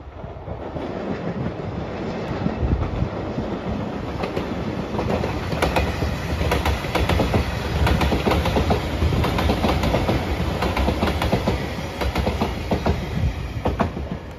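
JR Shikoku 8000-series electric limited express passing close by, its wheels clacking over the rail joints in quick runs of clicks. The rumble builds over the first few seconds, is loudest in the middle, and eases near the end as the train draws away.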